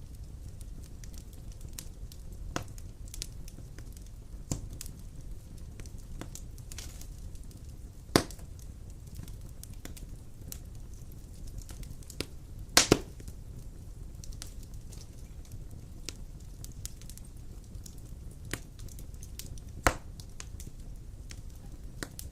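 Wood fire crackling in a fireplace: a steady low rumble of burning with scattered sharp pops and snaps. The loudest is a double pop about halfway through, with other strong pops about a third of the way in and near the end.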